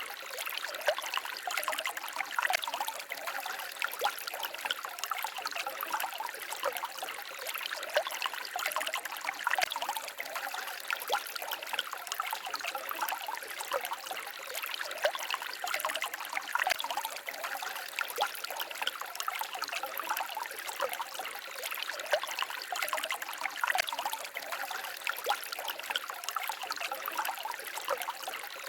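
Small forest stream babbling and trickling over rocks: a steady splashing with many small irregular splashes and no pause.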